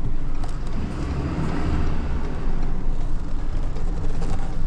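Tow truck engine idling with a steady low rumble, swelling slightly about a second in.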